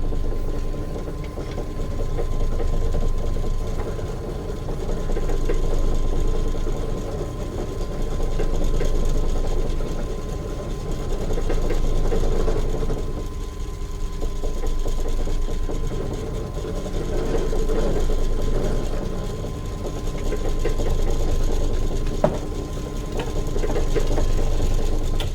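Bench pillar drill running, boring a small 2.5 mm hole into a hardwood stick. The motor's steady hum swells and eases about every three seconds as the bit is fed into the wood.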